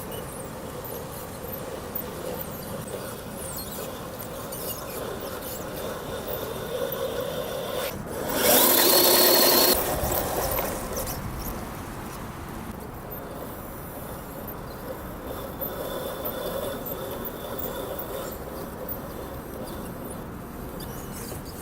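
Electric motor and gearbox of an RC scale Toyota Hilux crawler whining as it drives, with a steady hum throughout. About eight seconds in the whine gets much louder for a second and a half as the motor is pushed harder.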